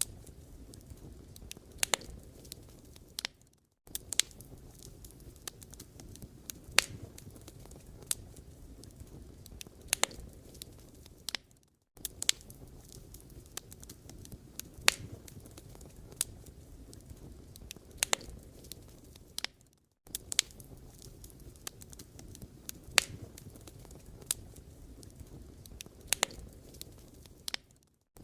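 Wood fire burning: a steady low rustle with sharp crackles and pops of the burning logs, one or two a second. The sound cuts out briefly about every eight seconds.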